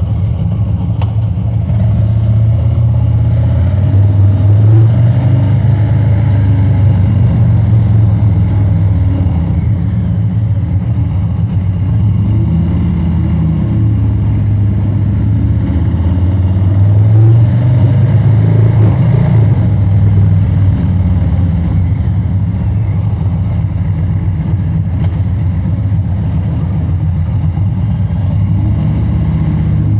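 Harley-Davidson Street Bob 114's Milwaukee-Eight V-twin running through a loud aftermarket exhaust while riding, a deep steady rumble that swells with acceleration twice, about four seconds in and again near the middle.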